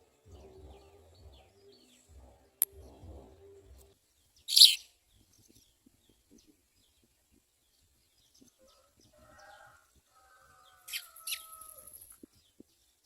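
House sparrow chirping: one loud, sharp chirp about four and a half seconds in and a few more chirps near eleven seconds, over faint, scattered chirping. A low pulsing sound runs through the first four seconds.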